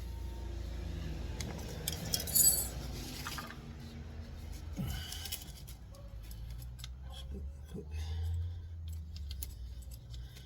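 Light metallic clinks and rattles of hand tools and a plug being handled, with the loudest clatter about two seconds in and another about five seconds in, over a low steady hum.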